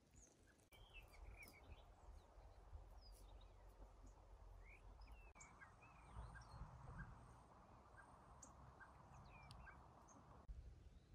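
Faint songbirds chirping and calling in the open, many short scattered calls that glide up and down in pitch, over a faint steady hiss that cuts off near the end.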